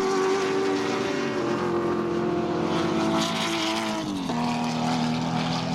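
Historic 1970s touring cars racing past at high revs. The main engine note holds steady, then drops in pitch in steps, a small drop about a second and a half in and a larger one near four seconds in.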